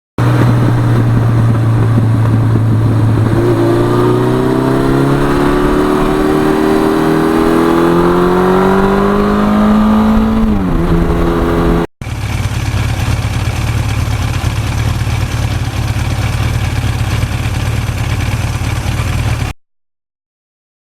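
Suzuki GS1100E's air-cooled inline-four engine accelerating. Its pitch rises steadily for several seconds, then drops sharply as the revs fall. After a cut, the engine runs steadily under way with a hiss of wind noise, then the sound cuts off.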